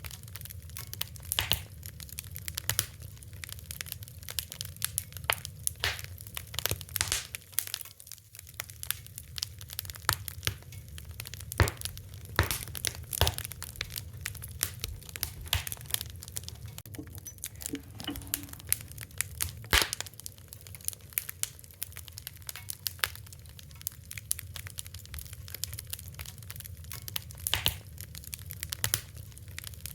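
Fire crackling: irregular sharp pops and snaps, some much louder than others, over a steady low rumble.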